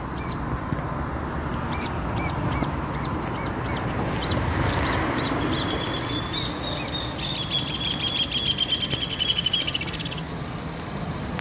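Bird calling: short, sharp chirps repeated two or three times a second, then a fast trill of notes, falling slightly in pitch, in the second half, over a low steady street rumble.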